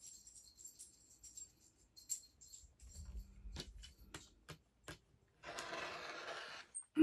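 Scattered light clicks and small metallic jingles of sewing tools and fabric pieces being handled, then about a second of steady rustling near the end.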